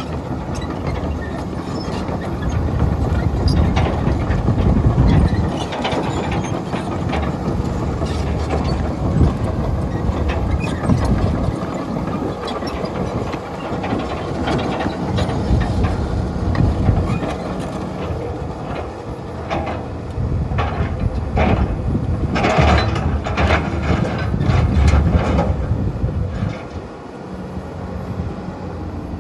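Komatsu PC210LC-10 excavator's diesel engine working under hydraulic load, swelling and easing every few seconds as the arm moves. Over it come clanks, knocks and scraping from the bucket and thumb handling broken concrete, thickest a little past two-thirds of the way through.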